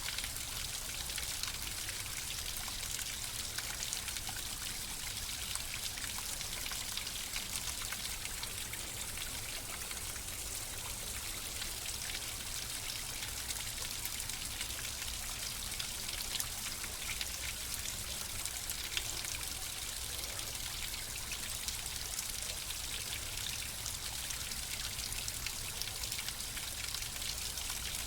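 Flowing water running steadily, a trickling stream with many small splashing ticks through a constant hiss.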